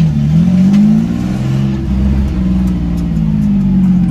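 A car engine running loudly under light throttle. Its pitch dips slightly near the start, then rises and wavers gently.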